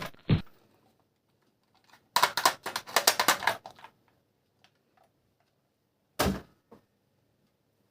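Hard plastic toy parts clicking and clattering as they are handled: a quick run of clicks for about a second and a half, then a single clack a few seconds later.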